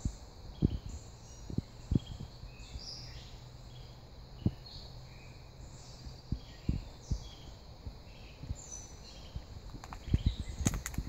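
Small birds chirping and calling, with scattered low thumps that come more often near the end.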